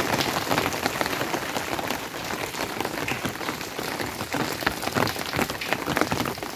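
Steady rain, a dense patter of individual drops close by.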